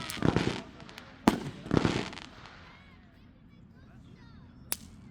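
Fireworks going off: two sharp bangs about a second apart in the first two seconds, each followed by a burst of noise, then a single sharp crack near the end.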